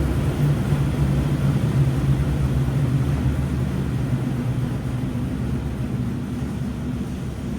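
Washing machine running: a steady low motor hum over an even wash of noise, slowly getting a little quieter.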